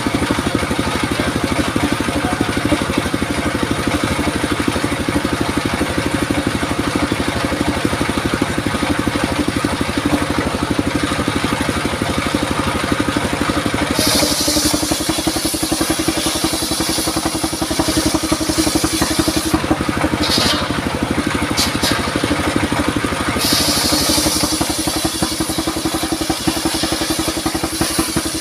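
Engine-driven circular saw running steadily. About halfway through, a high, hissing cut into durian wood starts, pauses briefly, then resumes.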